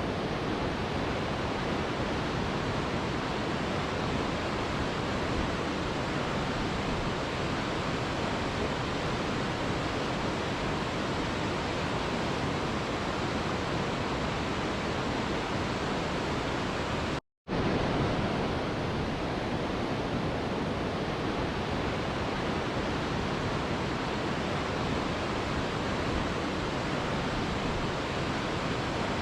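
Mountain river rushing: a steady, even roar of flowing water. The sound cuts out completely for a split second about seventeen seconds in, then resumes unchanged.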